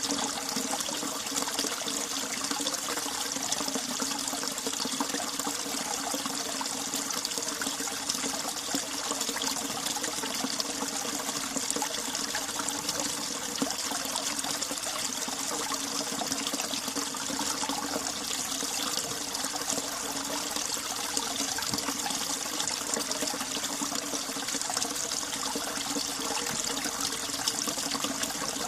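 Icy winter mountain stream running and trickling steadily.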